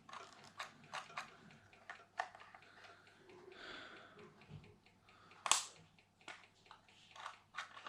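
Scattered light clicks and small knocks from handling the RC truck and its transmitter while trying to get it going, with one sharper click about five and a half seconds in.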